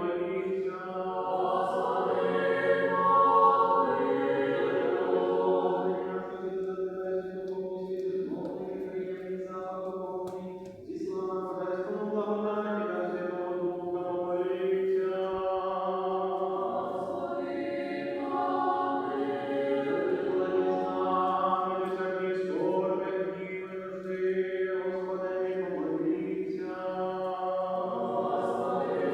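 Choir singing Ukrainian church chant a cappella, several voices in harmony over a steadily held low note, with short breaks between phrases.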